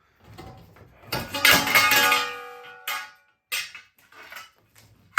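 Metal parts of a washing machine clattering together with a ringing clang, followed by a few sharp knocks.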